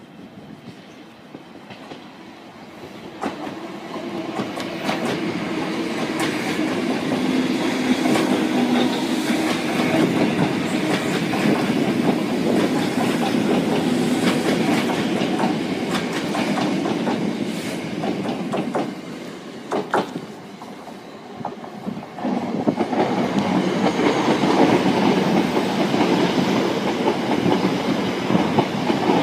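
Two electric passenger trains passing one after the other, with wheels clicking over the rail joints. The first builds up from about three seconds in and fades around twenty seconds in. A Stansted Express train then passes from about twenty-two seconds in.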